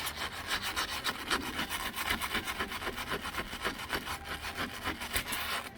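A hand tool scrubbing and scraping corroded aluminum frame in rapid back-and-forth strokes, about four to five a second, taking off corrosion to prepare the metal for paint. The strokes stop just before the end.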